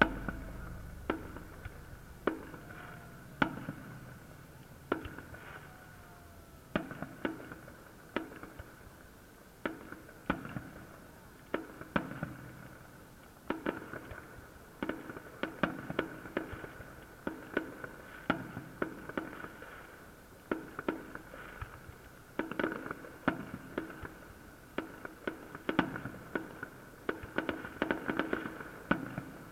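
Fireworks salute: aerial shells bursting one after another as sharp bangs at irregular intervals, coming thicker and faster in the last few seconds.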